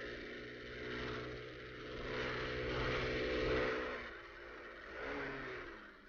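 Motorcycle engine running, swelling and easing in level a few times, then fading away near the end.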